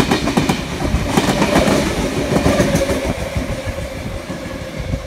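V-set double-deck intercity electric train passing through the platform at speed, its wheels clacking rapidly over the rail joints. The noise dies down after about three seconds as the last carriages go by.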